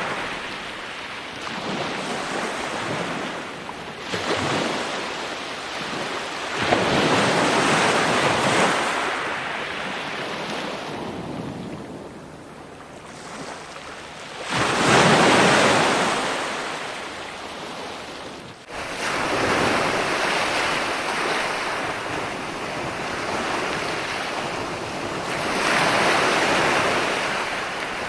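Ocean surf: waves breaking and washing up the shore in repeated swells that rise and fade, the biggest one breaking about halfway through. Near two-thirds of the way in the sound drops out for an instant and cuts straight back in.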